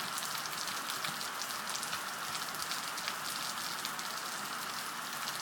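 Steady rain falling and pattering on the ground, an even hiss with many small drop ticks.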